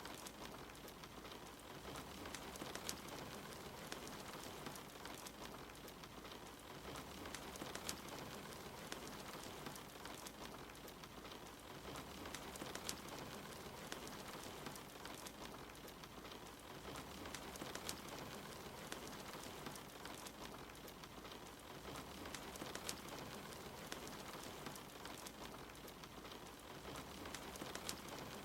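Steady rain hiss mixed with a fireplace crackling, with sharp pops scattered through.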